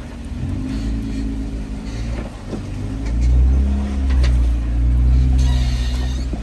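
Jeep Wrangler engine running as it drives the off-road trail, its note rising to its loudest about halfway through, with a few short knocks.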